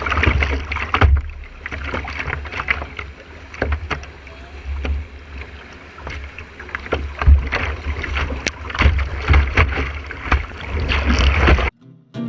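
Whitewater canoe on moving water: rushing, splashing water with irregular sharp splashes, and wind buffeting the microphone as a low rumble. The sound cuts off abruptly near the end.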